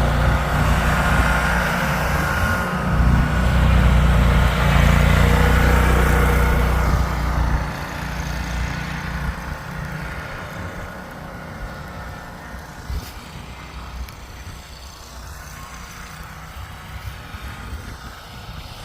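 A vehicle engine running, loud for the first seven seconds or so, then dropping off suddenly and fading away.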